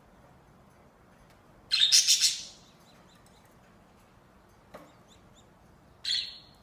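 Pet budgerigar calling: a loud, harsh, chattering call about two seconds in, a few faint chirps, a small click, and a shorter call near the end.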